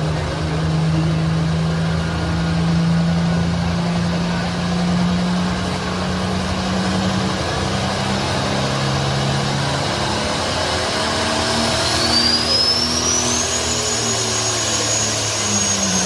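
Pulling tractor's engine running hard under load through a pull, its pitch shifting partway through. About twelve seconds in, a high whine rises and then holds steady.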